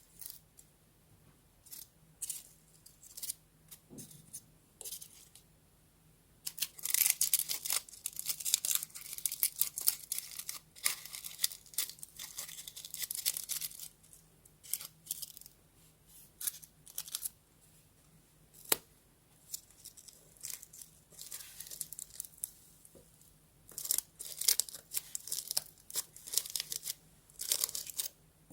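Paper being torn and crinkled by hand, in two long bouts, with scattered small taps and rustles between them.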